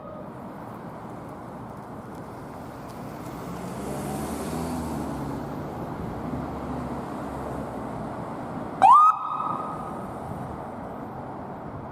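Emergency vehicle siren at the roadside over steady traffic noise, with a vehicle engine swelling past midway; about nine seconds in, one short loud siren whoop sweeps sharply up and holds for about a second.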